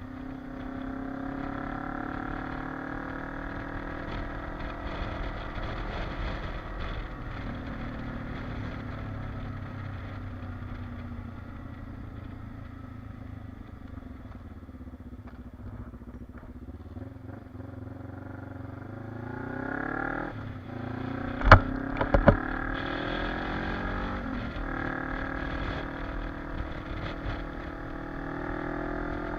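Kawasaki KLE motorcycle engine running under way. The engine eases off and winds down through the middle, then picks up and accelerates again about two-thirds through, its pitch climbing in steps. Two sharp knocks, the loudest sounds here, come just as it picks up again.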